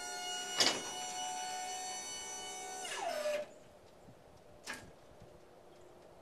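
The dump bed's electric hydraulic pump motor whines steadily as it runs, with a sharp click about half a second in. About three seconds in it is switched off, and the whine drops in pitch as the motor winds down. A single knock follows near five seconds.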